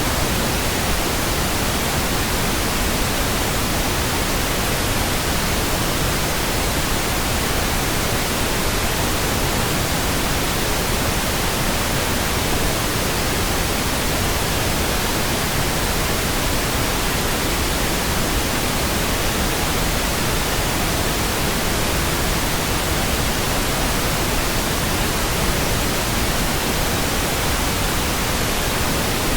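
Steady synthetic pink noise: an even, unchanging hiss, deeper than white noise, with no other sound.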